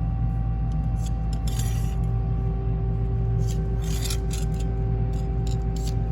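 A workshop motor hums steadily while metal is scraped or rasped in short, irregular strokes.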